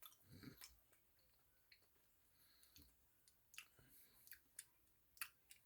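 Near silence with faint, scattered mouth clicks of someone chewing a soft, fluffy banana candy bar.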